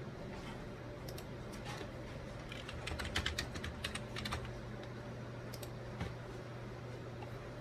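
Keystrokes on a computer keyboard: scattered taps, then a quick run of typing about three seconds in, over a steady low hum.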